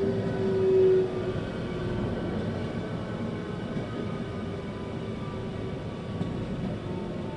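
Inside a 521-series electric train car: the motor whine, one steady tone sinking slightly in pitch, cuts off about a second in, leaving the steady rumble of the car running on the rails. The train is nearing a station stop.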